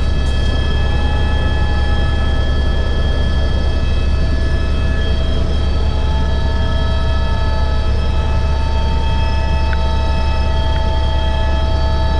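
Helicopter turbine and rotor running at a steady pitch: a loud, constant low drone with several steady whining tones above it.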